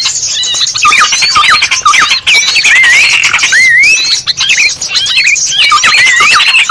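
Many small birds calling at once without a break: harsh chattering with swooping, whistled notes that rise and fall. It is a lure recording of small songbirds, used to call other small birds in for trapping.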